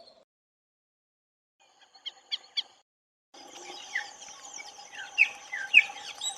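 Bird calls: a brief cluster of three or four sharp chirps about two seconds in, then, after a short gap, a run of short downward-slurred call notes about twice a second over a faint steady hum.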